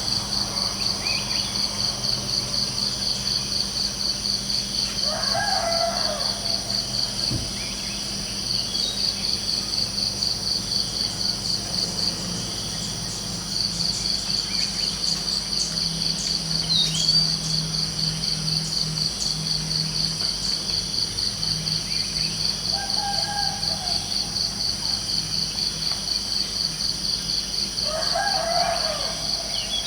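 Crickets chirping in a steady, rapid pulse that pauses briefly twice. A rooster crows about five seconds in and again near the end, with a shorter call in between.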